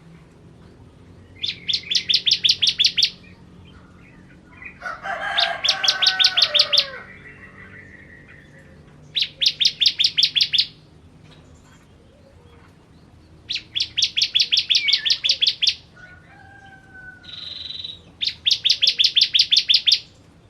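Bar-winged prinia (ciblek) singing: five bursts of rapid, evenly repeated high chipping notes, about six a second, each burst lasting a second or two with short pauses between. Fainter lower whistled calls sound under the second burst and just before the last.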